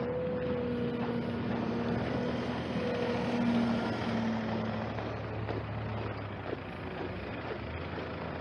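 A motor vehicle's engine running, a steady hum that fades out about five seconds in.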